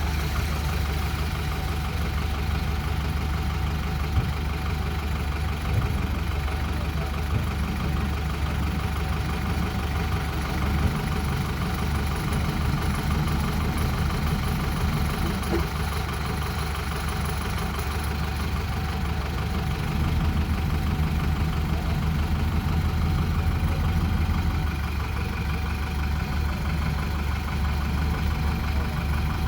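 Heavy diesel engine running steadily at low speed, a little louder for a few seconds about two-thirds of the way through.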